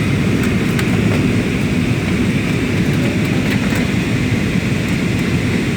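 Steady rumble of engine and airflow noise heard inside an airliner's cabin during the approach to landing, heaviest in the low range, with a few faint ticks.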